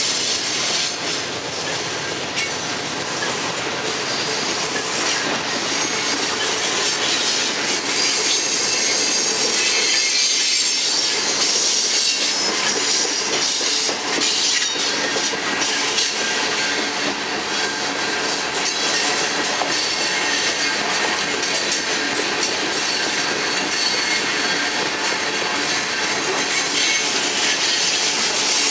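Freight cars of a passing train, loaded gondolas and covered cement hoppers, rolling by on the rails: steady wheel-on-rail noise with a high-pitched squeal from the wheels.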